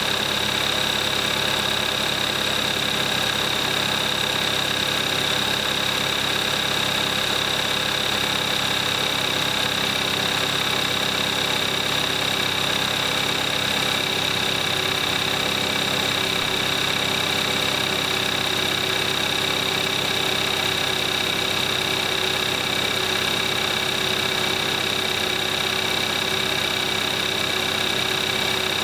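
2014 Kia Forte5's 2.0-litre GDI four-cylinder engine idling steadily on cold start warm-up, at about 22,700 miles on conventional 5W-20 oil. A steady high-pitched tone sits over the engine's even running.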